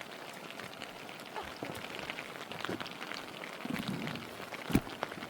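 Steady rain falling, with many individual drops landing close by as small clicks. A single sharp knock sounds a little before the end.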